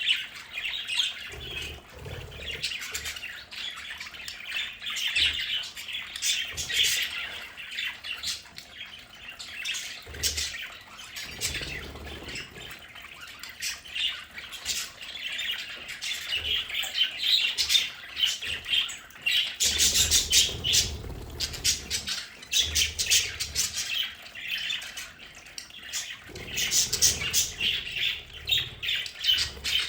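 Several budgerigars chattering, with rapid chirps, warbles and squawks overlapping without a break.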